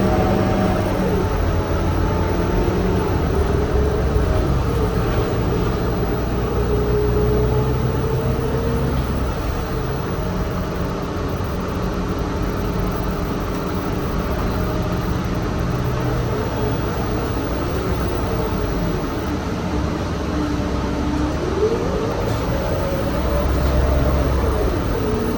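A city bus in motion, heard from inside: a steady low rumble with a drive whine that rises and falls in pitch several times as the bus speeds up and slows down.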